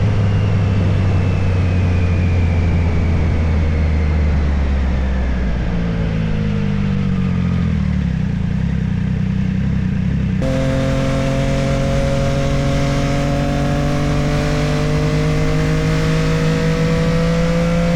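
Motorcycle engine running under way with a rumble of wind and road noise. Its note falls slowly as the bike slows, then after an abrupt change about ten seconds in it climbs steadily as the bike speeds up.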